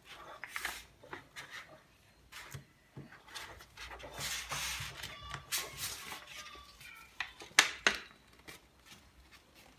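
A sheet of paper being folded and creased by hand: irregular rustling and crinkling with scattered small clicks, a longer rustle about four seconds in, and two sharp clicks a little before eight seconds.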